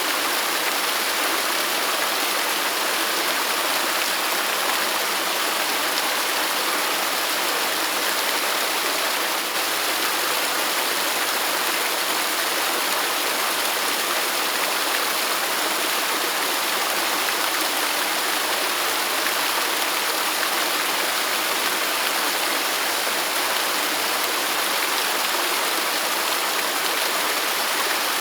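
Waterfall rushing steadily: an even hiss of falling water with little deep rumble.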